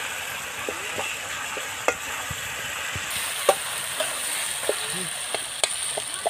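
Boiled potatoes frying in onion-tomato masala in a metal kadhai while a metal spatula stirs them: a steady sizzle, with a few irregular clinks of the spatula against the pan.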